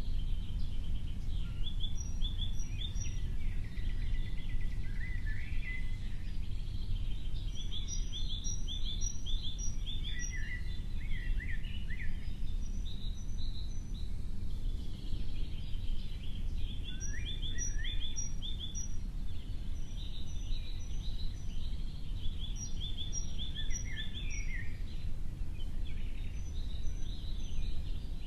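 Small birds calling in quick runs of short, high chirps that repeat every few seconds, over a steady low rumble.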